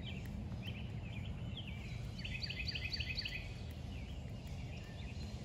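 A songbird singing quick, repeated chirping notes, densest from about two seconds in, over a steady low background rumble.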